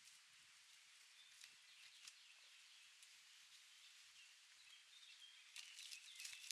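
Near silence: faint outdoor ambience with a few faint bird chirps, and some soft clicks or rustles near the end.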